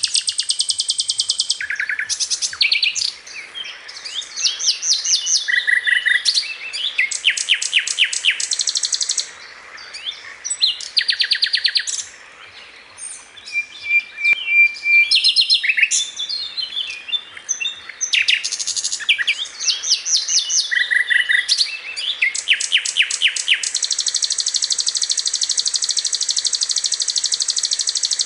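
A sikatan londo flycatcher singing continuously: bursts of fast, high trills and rattling phrases, with short pauses in between, ending in one long unbroken trill.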